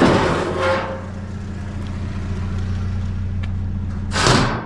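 Truck engine idling with a steady low hum, with a short rushing noise at the start and another, brighter one about four seconds in.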